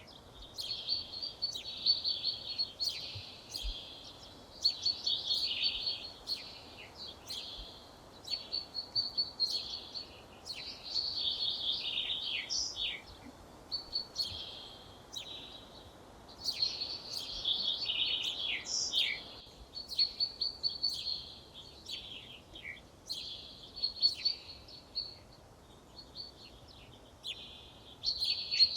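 Songbird singing: short, bright high-pitched phrases of about one to two seconds each, repeated every couple of seconds with brief pauses, over a faint steady background hiss.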